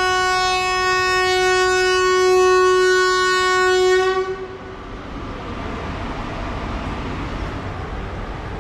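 Train horn sounding one long steady blast that stops about four seconds in, leaving the rumble of the running train.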